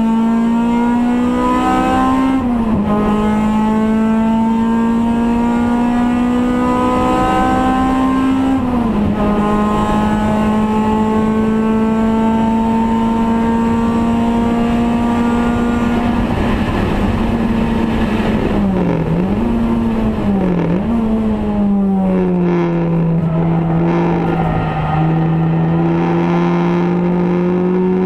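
Race car's engine heard from inside the stripped cabin, running hard at high revs. Its pitch climbs slowly and drops sharply twice in the first ten seconds at gear changes, dips and recovers twice around twenty seconds, then falls lower and climbs again.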